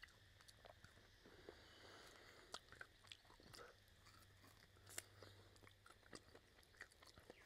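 Faint chewing and gnawing of pork rib meat off the bone, with irregular small wet clicks and smacks of mouth and teeth.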